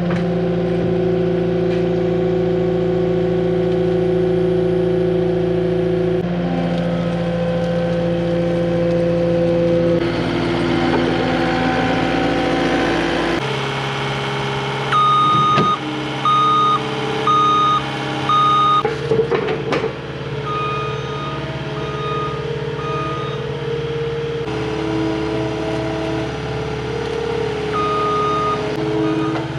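Cat 259D compact track loader's diesel engine running under work, its pitch stepping up and down. Its backup alarm beeps as it reverses: a run of evenly spaced beeps about halfway through, fainter beeps after that, and one more beep near the end.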